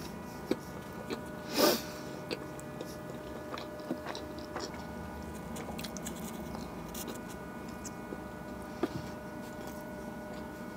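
A person chewing and biting food close to the microphone, with wet mouth clicks and smacks and one louder sharp noise about a second and a half in, over a faint steady hum.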